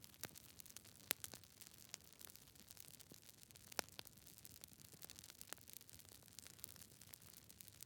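Wood campfire crackling: irregular sharp pops and snaps over a faint hiss, the loudest about a second in and again near four seconds.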